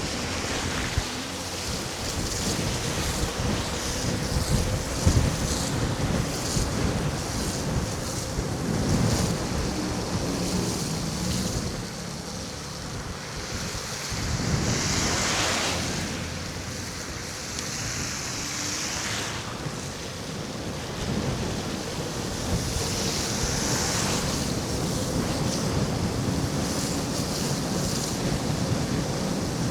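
Wind buffeting the microphone of a moving electric scooter, over a steady hiss of tyres on a wet, slushy road. The hiss swells louder twice, about halfway through and again about two-thirds of the way in.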